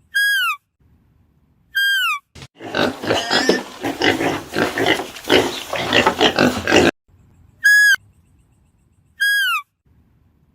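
Animal calls: a short, clear whistle falling in pitch, repeated about every one and a half seconds, interrupted in the middle by about four seconds of harsh, rapid, noisy calls.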